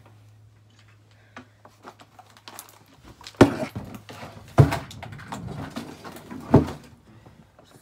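Household items being handled and moved: rustling and small clicks, with three loud knocks as things are set down or pushed into place, the first about three and a half seconds in, the last near the end.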